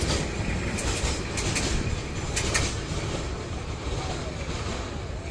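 Freight train of tank wagons rolling through a station without stopping. The wheels click over the rail joints, and the sound slowly fades.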